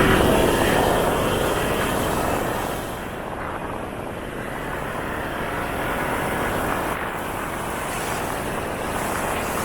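Motorcycle on the move, engine and wind rushing past the rider's microphone as one steady roar. It eases down over the first few seconds as the bike backs off the throttle, then holds steady.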